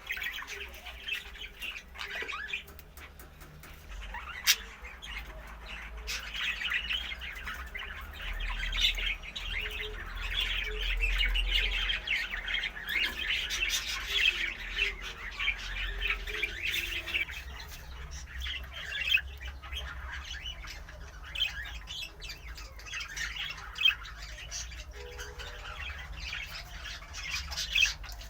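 Caged pet birds, cockatiels and other ornamental birds, chirping and squawking together in a dense, overlapping chatter, busiest in the middle, with a few sharp, loud squawks standing out.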